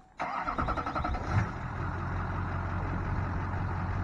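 Duramax LB7 6.6-litre V8 turbo-diesel cranking and firing, catching with a loud burst about a second and a half in, then settling into a steady idle.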